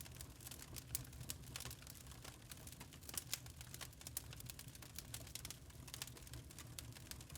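Wood fire crackling steadily: irregular sharp pops and snaps, several a second, over a low rumble of the burning logs.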